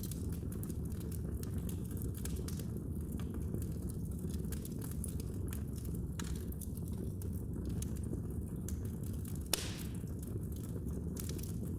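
Fire burning in a fireplace: a steady low rumble with scattered crackles and pops, and one louder pop about three-quarters of the way through.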